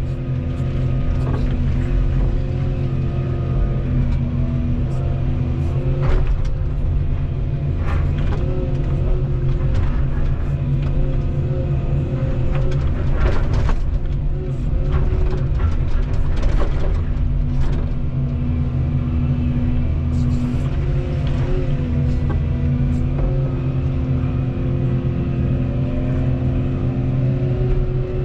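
Volvo 235EL excavator's diesel engine running steadily under load, with hydraulic whine that shifts in pitch as the machine works and scattered sharp knocks and cracks.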